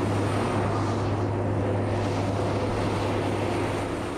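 Heavy road train's diesel engine running steadily under way: a constant low drone with dense road and mechanical noise.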